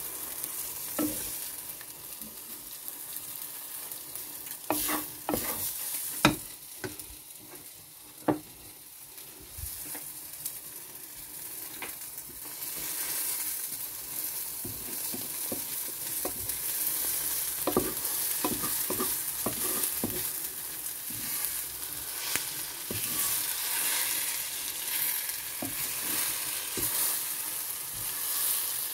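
Vegetable omelette sizzling in a nonstick frying pan, with a wooden spatula scraping and knocking against the pan as the omelette is pushed and folded. The sizzle grows louder about halfway through.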